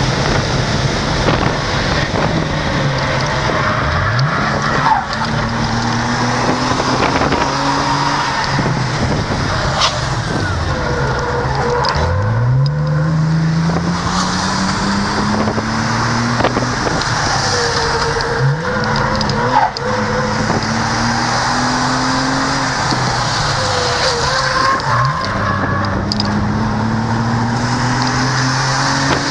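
Toyota sedan's engine heard from inside the cabin on a fast lap, revving hard four times as the car accelerates out of corners, the pitch dropping away between as it brakes, with tyres squealing briefly and steady road and wind noise throughout.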